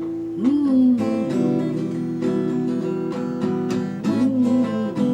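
Acoustic guitar strumming chords in an instrumental break of a rock song. A melody line slides up and back down twice over the chords.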